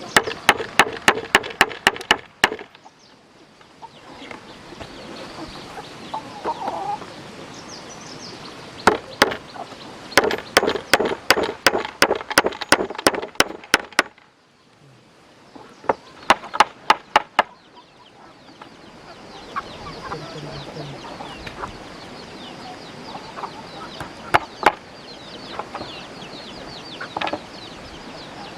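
Rapid runs of sharp knocks, about four a second, in several bursts, like hammering, with chickens clucking in between.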